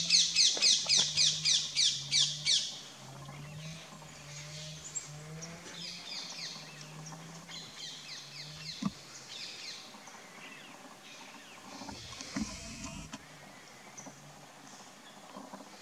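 A bird calling a rapid series of high, falling whistled notes, about three a second, for the first two and a half seconds. Fainter bird chirps follow over a low steady hum, with one sharp click about nine seconds in.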